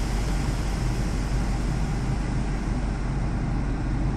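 Automatic car wash air dryers blowing, a steady rush of air over the car heard from inside the cabin.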